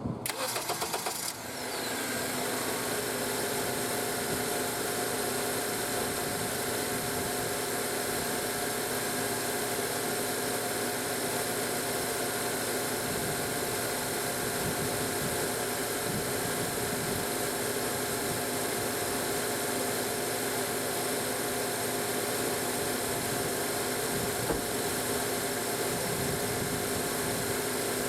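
Honda Accord engine starting: a second or so of cranking, then it catches and settles into a steady idle. The idle is even, a sign the engine is running properly with its air intake, filter and mass airflow sensor reconnected.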